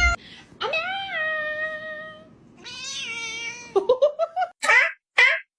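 Cat meowing: two long drawn-out meows, each rising and then holding its pitch, followed by a quick string of short meows and two brief rough calls near the end.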